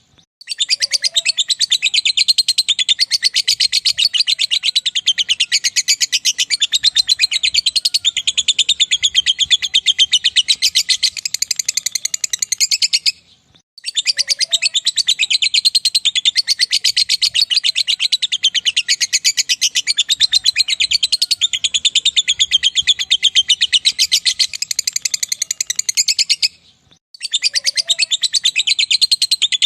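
Lovebird 'ngekek': a long chattering trill of very rapid, shrill notes run together, in bouts of about thirteen seconds broken by short pauses about 13 s and 27 s in.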